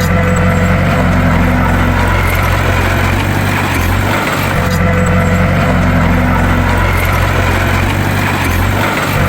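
Bulldozer's diesel engine running steadily, a low drone with a brief dip that recurs about every four and a half seconds.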